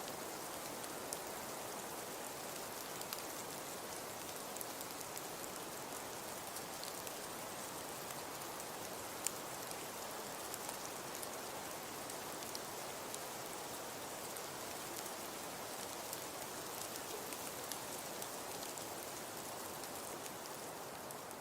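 Fireplace fire crackling: a steady hiss with scattered sharp pops, one louder pop about nine seconds in.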